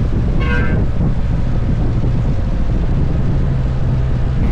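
Motorcycle engine running steadily at road speed, with heavy wind noise buffeting the microphone. A brief high tone sounds about half a second in.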